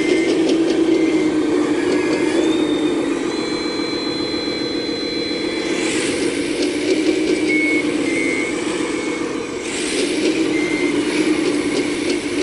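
Full-size hydraulic excavator running under load while digging hard ground: a steady engine drone with rapid metallic clatter, and a high hydraulic whine for a few seconds in the first half.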